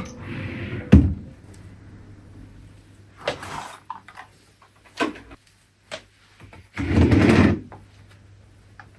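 Household handling noises: a sharp thump about a second in, then a few short scrapes or rustles, and a longer, louder rustling or scraping about seven seconds in.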